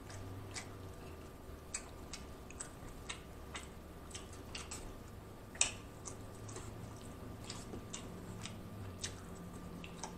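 Close-up chewing of soft baked mostaccioli pasta: small wet mouth clicks and smacks at an uneven pace, with one louder click about halfway through.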